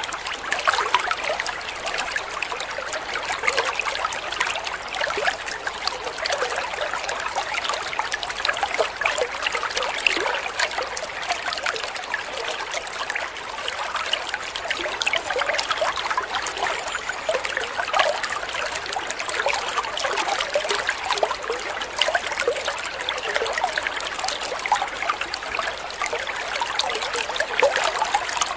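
Shallow water trickling and splashing steadily over stones, a continuous babbling of many small splashes.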